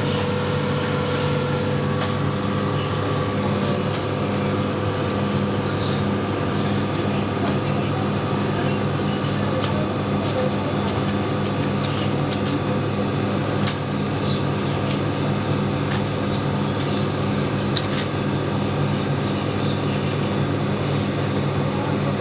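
Excavator's diesel engine running steadily at an even pitch, with scattered light clicks and ticks over it.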